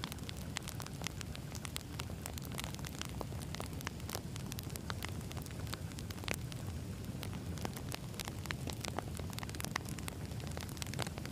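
Campfire of burning firewood logs crackling and popping irregularly over a steady low rumble of flames.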